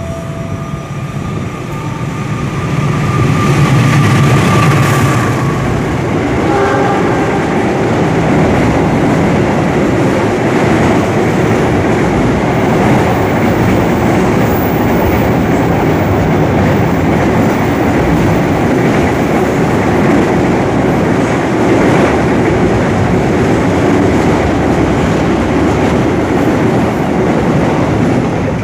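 A train passing right alongside the platform: a loud, steady rumble of wheels on rails that builds over the first three seconds and then holds.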